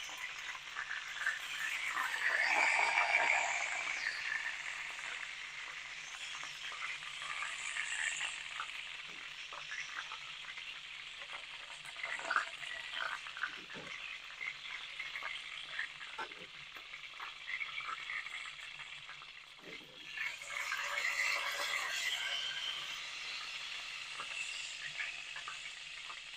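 Chicken pieces frying in a pan of hot oil: a steady sizzle with scattered crackles and pops, swelling louder twice, a few seconds in and again near the end.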